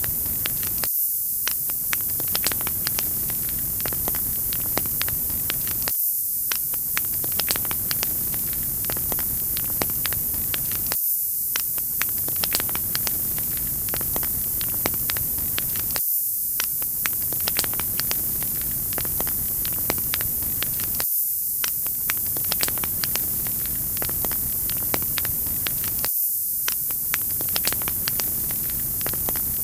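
Wood fire crackling: a steady hiss with frequent sharp pops and snaps, the same short pattern repeating about every five seconds.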